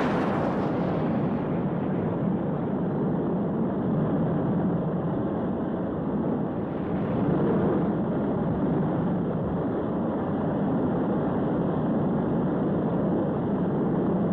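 Rocket-engine sound effect of a launched craft in flight: a steady, dense rushing noise. A brighter hiss at the start fades within the first second or two.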